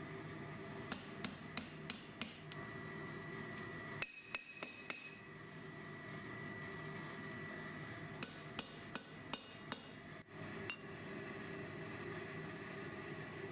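Blacksmith's hand hammer striking steel on an anvil while forging a brush handle, in three short runs of quick blows, some with a brief metallic ring, over a steady background hum.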